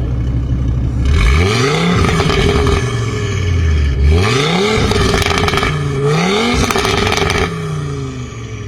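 Audi RS3 Sportback's five-cylinder engine through a loud Armytrix aftermarket exhaust, blipped from idle three times in quick succession with crackle on the revs, then settling back to idle.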